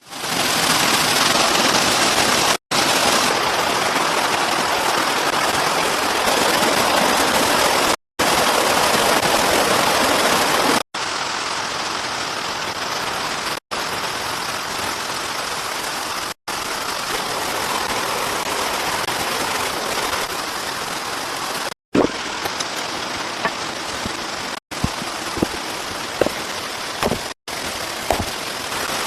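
Heavy rain falling steadily, in short stretches broken by abrupt cuts. In the last few stretches the rain is a little quieter and scattered sharp knocks cut through it.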